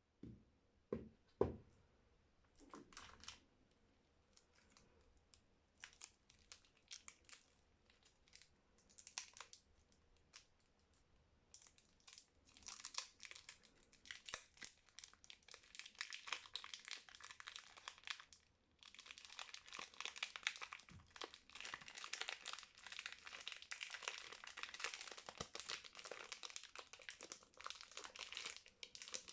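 Soap wrapping being handled and torn open: a few sharp taps at first, then scattered crinkles. About twelve seconds in it turns into steady crinkling and tearing of the wrapper, with a short pause a little after the middle.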